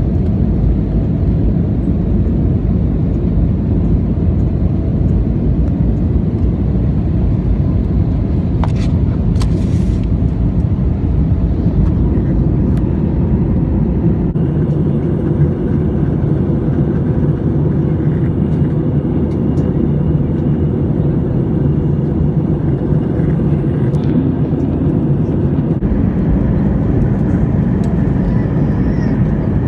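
Airbus A320 cabin noise heard from a passenger seat: a loud, steady rumble of the jet engines and airflow. About halfway through the tone shifts, the deepest rumble eases and a faint steady whine comes in.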